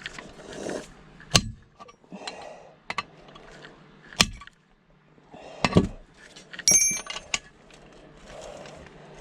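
Metal tools knocking and clinking against a part stuck fast in a teardown: three sharp knocks, then a short bright metallic ring about seven seconds in, with quieter handling clatter between.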